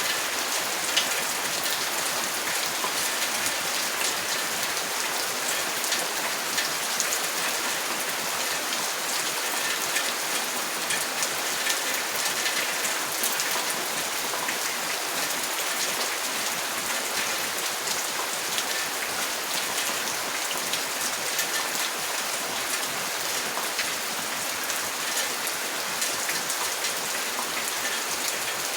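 Steady rain falling, with many small, sharp drop ticks over an even hiss.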